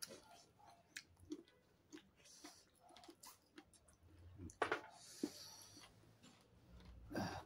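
Faint chewing and mouth sounds of people eating fried chicken wings with their hands, with scattered small clicks and a louder knock a little past halfway.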